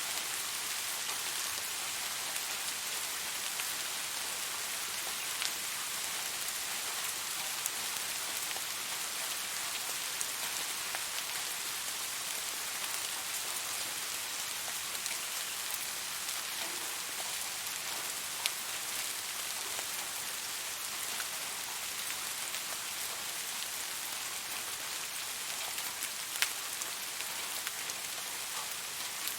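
Steady rain falling, an even hiss with occasional single drops ticking out louder.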